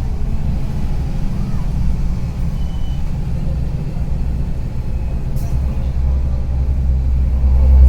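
Karsan Avancity+ articulated city bus engine running with a rattling clatter, a low rumble that grows louder over the last couple of seconds.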